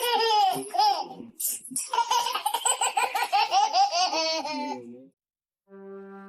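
High-pitched, hearty human laughter in rapid pulses for about five seconds, then a brief silence. Near the end, music with held brass-like notes begins.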